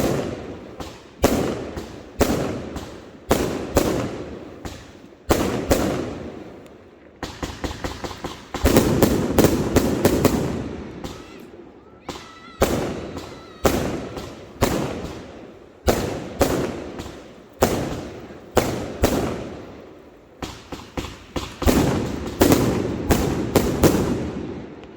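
Fireworks going off in quick succession: sharp bangs every half second to a second, each trailing off, with a dense stretch of rapid crackling bangs between about seven and eleven seconds in.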